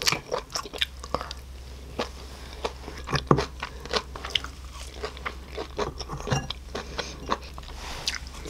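Close-up chewing and biting of crisp grilled makchang (intestine): a run of small crunches and mouth clicks.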